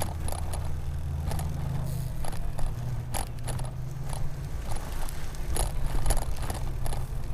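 E-bike with a Bafang BBSHD mid-drive motor being ridden: a steady low rumble of tyres on the road, with scattered light rattles and clicks from the bike. The motor and chain are so quiet they can't be heard.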